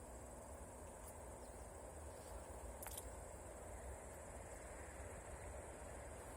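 Faint outdoor background: insects chirring as a steady high-pitched buzz over a low rumble, with a couple of faint clicks.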